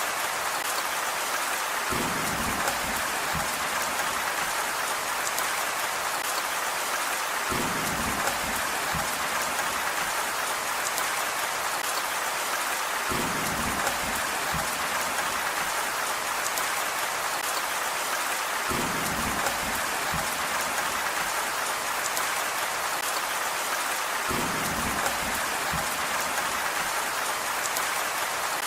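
Steady heavy rain hiss, with a brief low rumble coming back at even intervals about every five and a half seconds.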